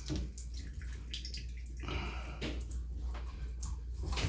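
Water splashing and dripping into a bathtub from a newly fitted shower head. It is leaking a little at the threaded shower-arm nipple, which is thought to be bad. There is a short patch of hiss about two seconds in.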